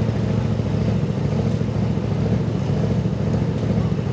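Diesel pickup truck engine idling steadily with a low, even drone.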